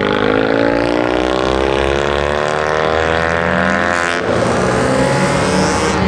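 Car engine accelerating hard, its pitch climbing steadily through one gear, then an upshift about four seconds in, after which the note drops and starts climbing again.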